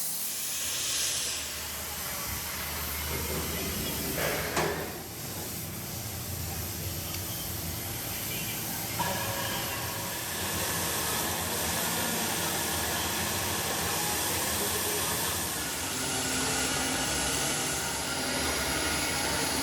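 Factory machinery running with a steady hiss, joined about nine seconds in by a steady machine hum.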